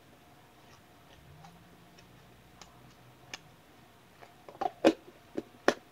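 Mouth smacks and tongue clicks from someone chewing a sticky peanut-butter-and-caramel candy bar. Scattered faint clicks give way to a quick cluster of louder smacks about four and a half seconds in.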